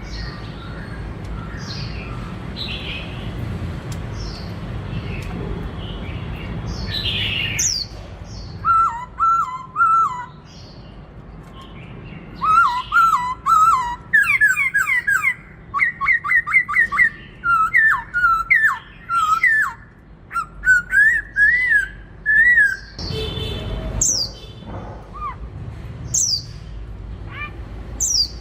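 Black-throated laughingthrush singing in a varied song. After a few faint calls over a low steady rumble, loud whistled phrases begin about eight seconds in: quick runs of repeated notes and rising and falling slurs, coming in bursts. Near the end the song breaks off to scattered calls.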